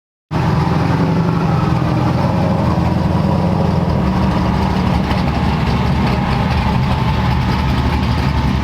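A large engine idling steadily with a deep, even rumble, cutting in abruptly just after the start.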